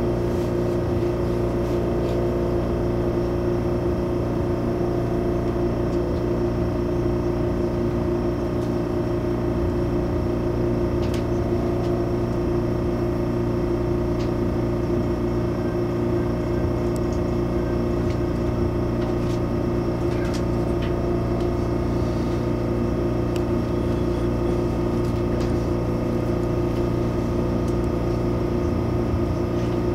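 Steady hum of auxiliary equipment and ventilation inside the cabin of an MTR Airport Express CAF train standing at a platform, with a few faint clicks.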